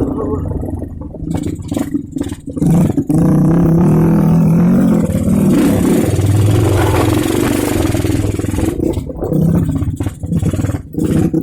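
Motorcycle engine revving up and down unevenly, loudest through the middle, then dropping off briefly several times near the end.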